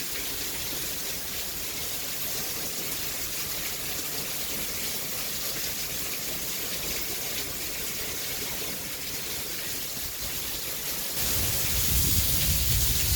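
Heavy rain pouring down in a steady hiss. About eleven seconds in it gets louder, with a low rumble added.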